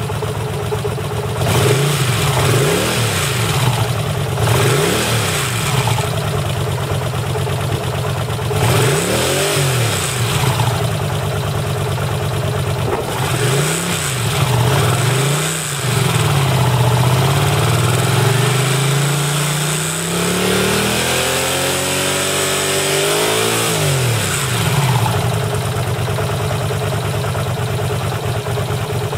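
A vehicle engine idling and being revved in a series of short blips. About two-thirds of the way in it makes a longer, gradual climb to higher revs, then drops back to idle.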